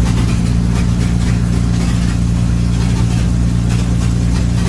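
Avro Lancaster bomber's number 2 piston engine running steadily just after start-up, a deep even drone with a rapid regular pulsing.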